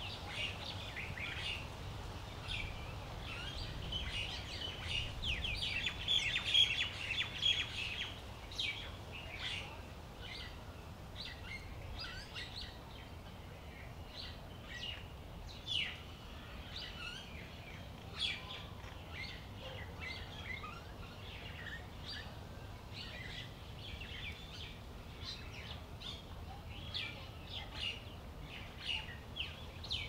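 Birds chirping: a busy run of short calls, loudest about five to eight seconds in, then scattered chirps, over a low steady rumble.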